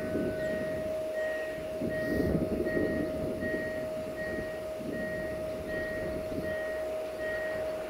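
Diesel-hydraulic locomotive approaching with its passenger train, a low engine rumble under a steady electronic warning tone and a short higher beep repeating about one and a half times a second.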